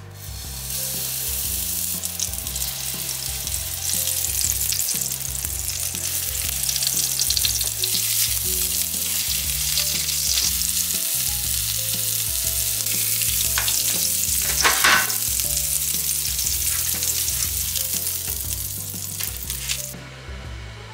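Hamburger steak patties sizzling and frying in oil in a frying pan, a dense steady hiss that starts as the first patty goes in and stops shortly before the end. About two-thirds of the way through a spatula scrapes briefly in the pan, the loudest moment.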